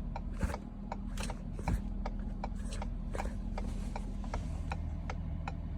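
A vehicle's hazard-light flasher clicking steadily, about two and a half clicks a second, over the steady low hum of the idling engine.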